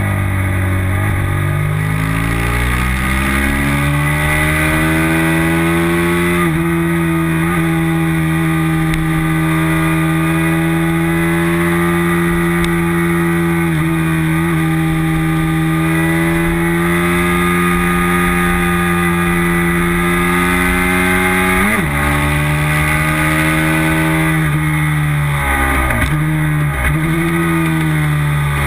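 Race motorcycle engine running hard, heard from a camera on the bike. Its pitch climbs over the first few seconds and then holds high and steady. It dips briefly at gear shifts about 6 and 14 seconds in, again around 22 seconds, and in a quick series near the end.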